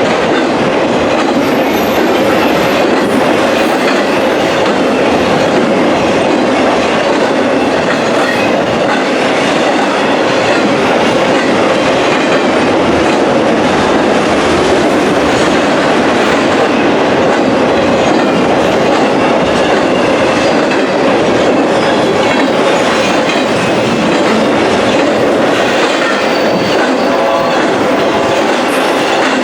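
Freight train cars rolling past close by, the steel wheels on the rails making a loud, steady rumble and clatter.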